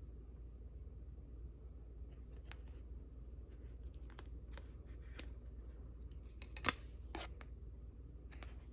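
Old paper cards being handled and sorted by hand: scattered light taps and papery rustles, with one sharper tap about two-thirds of the way in.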